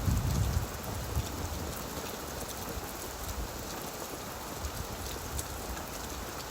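Steady gentle rain falling on leaves, a continuous hiss with the patter of individual drops. A low rumble fades out about half a second in.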